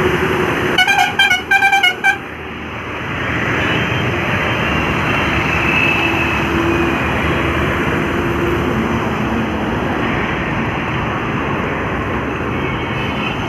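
A vehicle horn gives a rapid series of about six short toots about a second in. Steady heavy highway traffic noise with engine drone follows.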